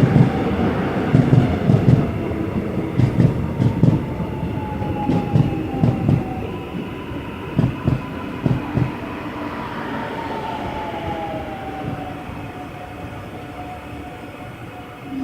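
Korail Line 4 electric multiple-unit train braking into a station: its motor whine falls in pitch while the wheels clack over rail joints, the clacks coming further apart as it slows. The noise eases off toward a near stop.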